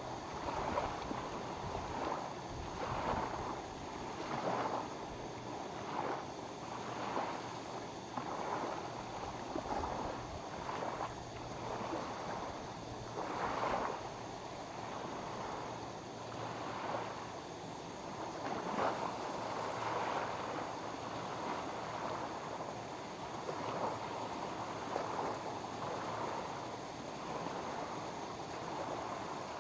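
Small waves lapping against the lake shore, a washing sound that swells and falls back every second or two.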